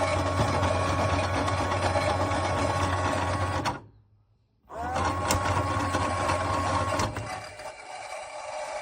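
A small electric motor whirring steadily with a low hum. It cuts off a little under four seconds in, then starts again after a half-second pause with a click and a rising whine, and stops near the end.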